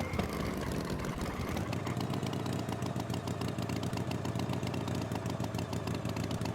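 A tractor engine running steadily at idle, with a fast, even chugging.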